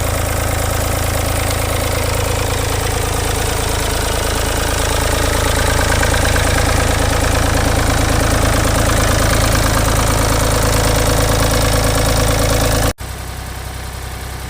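Ford 3000 tractor's three-cylinder diesel engine running at a steady speed with some knock, freshly rebuilt with a replacement cylinder head and not yet running smoothly. Near the end the sound drops suddenly to a quieter engine run.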